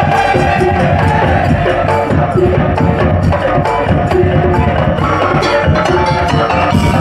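Madurese daul (tong-tong) music: a percussion ensemble playing continuously, with many sharp wooden knocks and drum strikes over a few pitched melodic notes.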